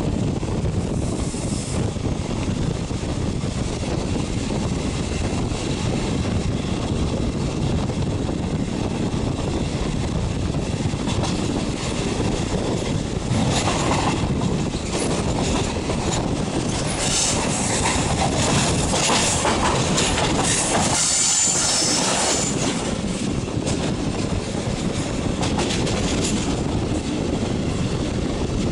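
Regional passenger train running on the line, heard from inside a carriage at an open window: a steady rumble and clatter of wheels on the rails. High-pitched wheel squeal rises through the middle part.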